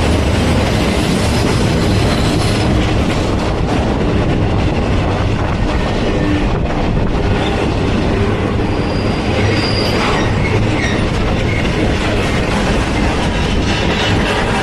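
Train cars rolling past close by, a loud steady rumble of wheels on rail, with a faint high squeal of wheels about two-thirds of the way through.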